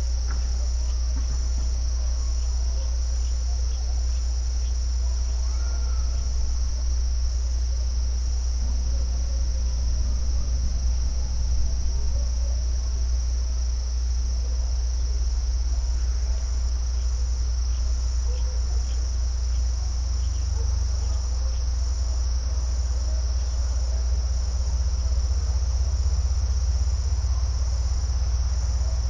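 A steady chorus of insects trilling in one unbroken high-pitched band, over a constant low rumble.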